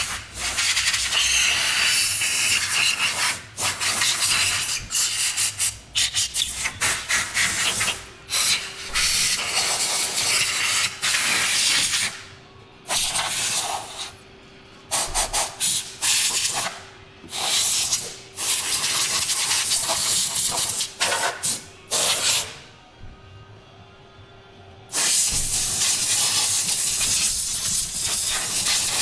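Hissing spray from a nozzle, switched on and off in repeated bursts of one to a few seconds, with short pauses between them.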